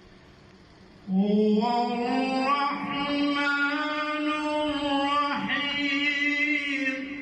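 A man reciting the Quran in a melodic chant, holding one long drawn-out phrase that rises slightly and wavers in pitch. It begins about a second in and fades near the end.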